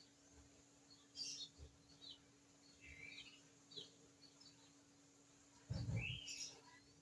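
Small birds chirping: a scatter of short, high chirps, with a brief low thump and rustle about six seconds in, the loudest sound, joined by another chirp.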